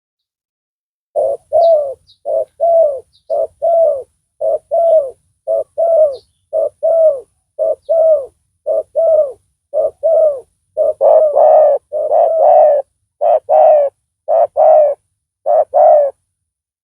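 Spotted dove cooing: a long run of short, evenly spaced coos that gets louder about eleven seconds in.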